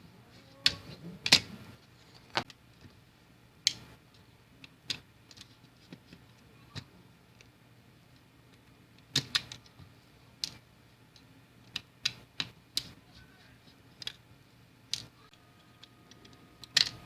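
Irregular sharp clicks and taps of small plastic parts and hand tools being handled while a computer mouse is taken apart for repair, with the loudest taps about a second in and near the end.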